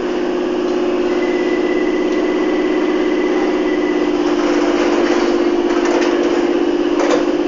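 London Underground C stock train running between stations, heard from inside the carriage: a steady, fast-pulsing hum. A thin high tone joins about a second in for some three seconds, and there is a short knock near the end.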